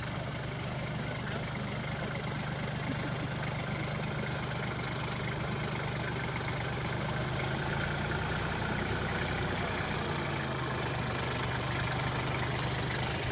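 Tractor diesel engine running steadily at idle or low revs, with a constant low hum.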